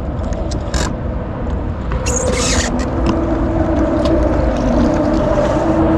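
Jet ski engine running steadily, with continuous wind and water rumble and a short hiss about two seconds in.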